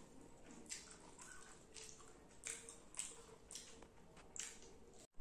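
Faint wet mouth sounds of someone eating rice and fish curry: short moist smacks and clicks from chewing, about two a second.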